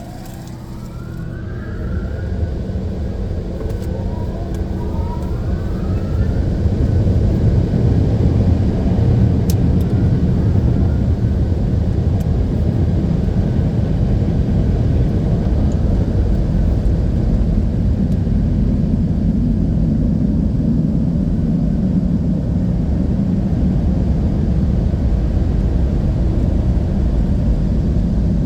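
Automatic car wash dryer blowers spinning up, their motors rising in pitch over the first few seconds, then running steadily with a loud, low rushing of air.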